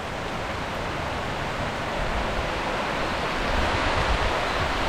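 Heavy rain pouring down in a steady hiss that slowly grows louder.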